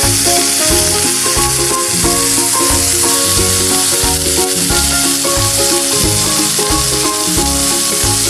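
Chicken breast pieces sizzling as they fry in coconut oil in a pan, a steady hiss under background music with a regular beat.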